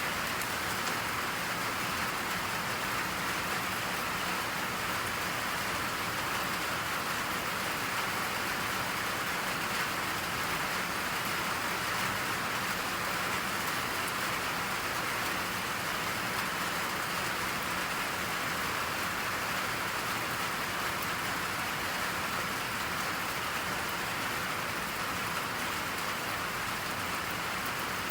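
Steady, even rain pattering on a surface, with no distinct drips or thunder.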